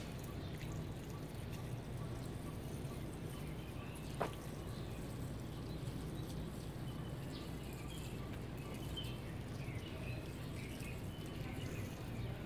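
Faint outdoor ambience: a steady low background hum, with small birds chirping in short scattered calls through the second half. There is one sharp brief chirp or click about four seconds in.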